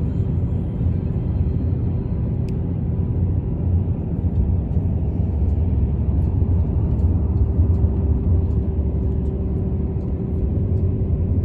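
Steady low rumble of road and engine noise from a dually pickup truck driving along at an even speed, heard from inside the cab.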